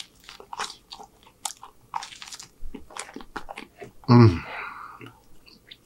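A man biting and chewing a crusty slice of cheesy garlic bread close to the microphone: irregular crunchy chewing clicks. A short vocal sound from him comes about four seconds in.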